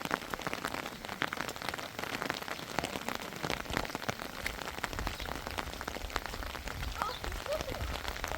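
Rain falling steadily, a dense patter of many small drop ticks, with a low rumble joining in from about three and a half seconds in.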